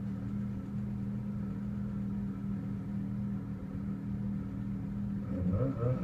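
Snowmobile engine idling with a steady low hum. It gets louder and its note wavers near the end.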